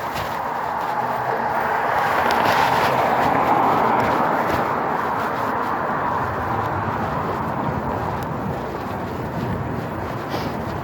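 Steady road and wind noise from riding a bike, swelling to a peak a few seconds in and then easing off.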